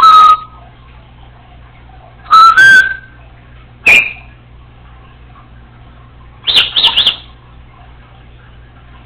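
Congo African grey parrot giving loud, short whistles and calls in four separate outbursts a few seconds apart, one rising in pitch and the last a quick run of high notes.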